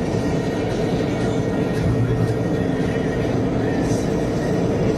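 Steady road and engine noise heard inside a car cruising on an expressway.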